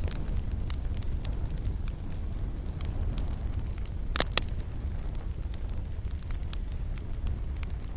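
Fireplace fire crackling: scattered sharp pops and snaps over a steady low rumble of the flames, with a louder double pop about halfway through.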